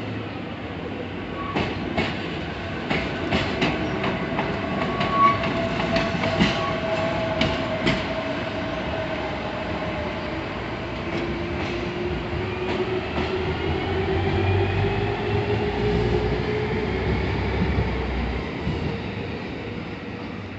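A train running on the rails, its wheels clicking over rail joints in the first half. In the second half a pitched whine rises and a low rumble builds.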